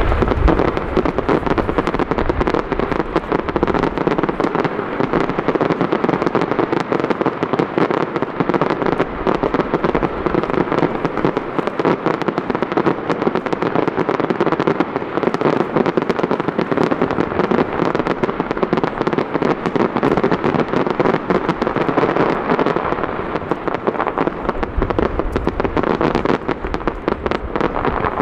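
A computer-fired star mine fireworks barrage: a dense, continuous rattle of bursting shells and crackle with no gaps, deep booms heavy at the start and building again over the last few seconds.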